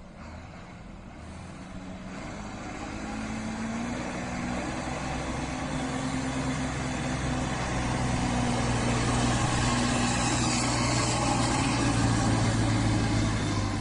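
A heavy vehicle's engine running steadily, growing louder over the first several seconds and then holding.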